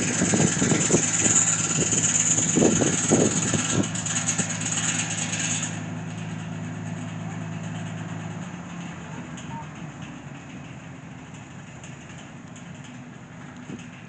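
An engine running steadily with a low hum and voices over it in the first four seconds. The louder noise cuts off at about six seconds, and the hum stops about eight and a half seconds in.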